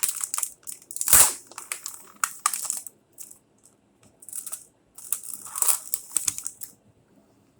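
Plastic cookie package being handled and torn open, crinkling and crackling in irregular bursts, loudest about a second in, with a short lull midway.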